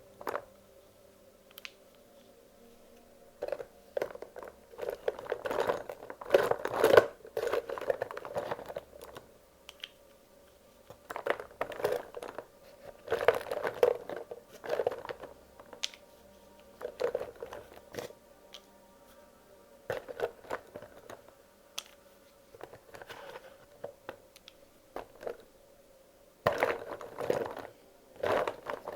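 Wax crayons clicking and clattering against one another as they are handled and sorted by hand, in irregular bursts of rattling with short pauses between.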